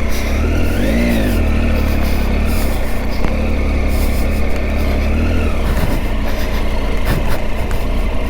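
Triumph Tiger 800's three-cylinder engine running as the motorcycle rides along, the revs rising and falling about a second in, over a steady rush of wind noise.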